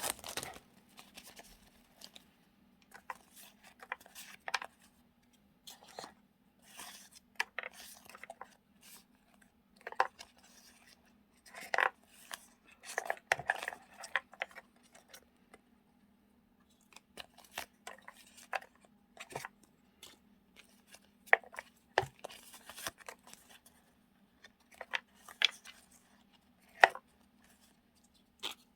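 Hands handling paper stickers and diary-decorating items and putting them into storage boxes: scattered crinkles, rustles and light taps with short pauses between, over a faint steady hum.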